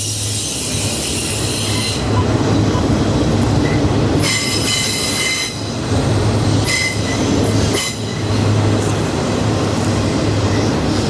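Railroad cars rolling past with a steady low rumble, and wheel flanges squealing in two loud high-pitched bursts, about four and seven seconds in.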